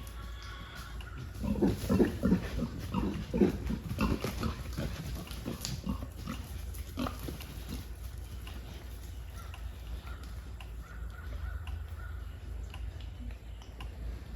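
Pigs grunting, with a burst of loud, close calls about a second and a half in that tails off into scattered quieter grunts by about seven seconds.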